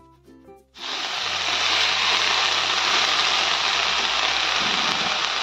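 Faint background music. Then, about a second in, a sudden loud, steady sizzling hiss as freshly washed, wet fenugreek leaves go into hot oil and fried chilli-garlic paste in a kadhai.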